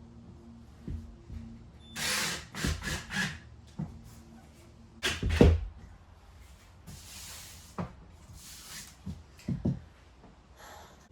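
Flooring work sounds: several short bursts of a power tool and a series of knocks. The loudest knock comes about five seconds in.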